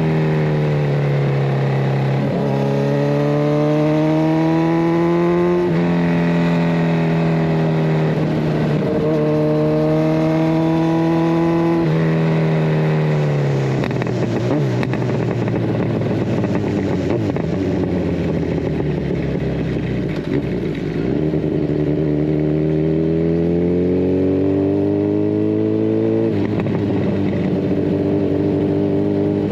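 Kawasaki Ninja 1000SX inline-four running through a de-catted Scorpion Red Power exhaust. It revs up through the gears, with the pitch dropping sharply at each of several quick upshifts, then eases off and runs lower before pulling hard again and changing up once more near the end.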